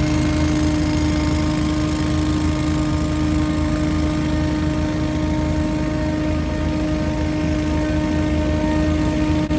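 Scag Windstorm stand-on leaf blower running steadily: an engine-and-fan drone with a constant pitched whine over a rush of air.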